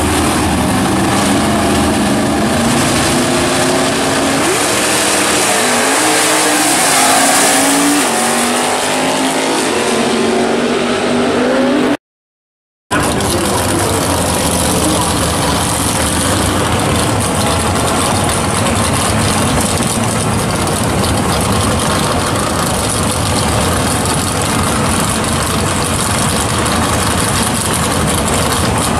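Drag-racing cars' engines revving and pulling away hard, their pitch climbing over the first several seconds. After a sudden cut, another pair of drag cars' engines run loud and steady at the starting line.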